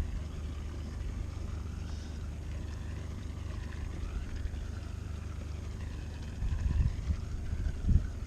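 Motor yacht's engine humming steadily and low. From about two-thirds of the way in, gusts of wind buffet the microphone.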